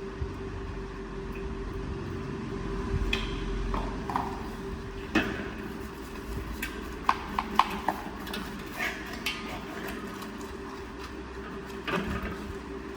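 Scattered sharp clicks and light knocks, a quick cluster of them about seven seconds in, over a steady mechanical hum.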